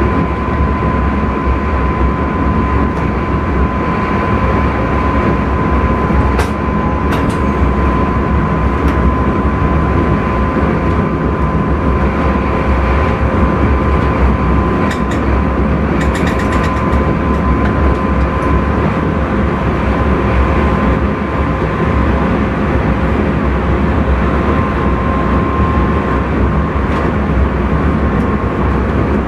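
Intercity train running at speed, heard from the driver's cab: a steady rumble of wheels on rail with a steady whine, and a few short clicks about six and sixteen seconds in.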